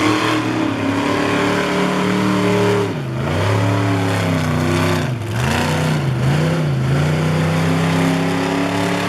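Monster truck engine running hard through a racing pass. The engine note drops sharply about three seconds in and again about five seconds in as the throttle eases for the turns, wavers up and down, then holds steady again.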